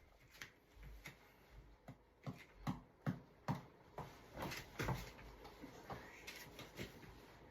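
A series of light knocks and taps in a small room, irregular at first, then coming about every half second for a stretch in the middle.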